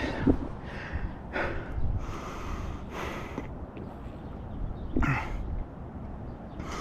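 A man taking a drink of water, with several heavy breaths and gasping exhales between swallows.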